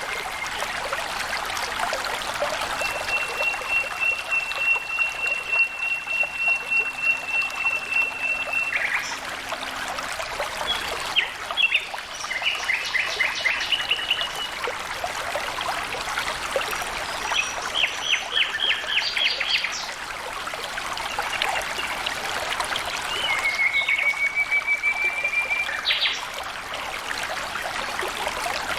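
Flowing water trickling steadily, with birds calling over it: a long held high note, then two bursts of rapid trills, and another held note near the end.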